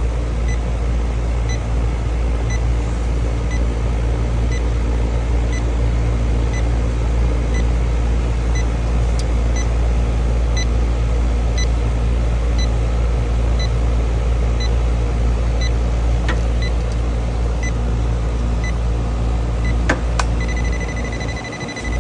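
Electronic refrigerant leak detector ticking about once a second over the steady hum of a running outdoor A/C condenser. A couple of clicks come about twenty seconds in, and the ticking then turns into rapid continuous beeping.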